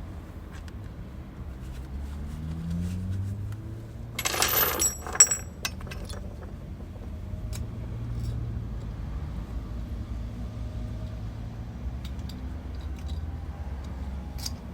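A short burst of metallic rattling and scraping about four seconds in, ending in a sharp ringing metal clink, as metal tools or small parts are handled and set down. Faint ticks of handling come and go over a steady low hum.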